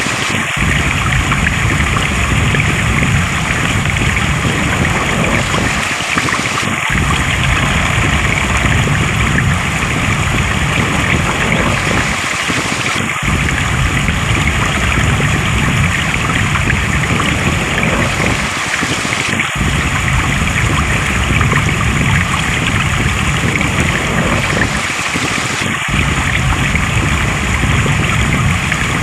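Stream water flowing and rushing steadily, with a brief dip in the low rumble about every six seconds.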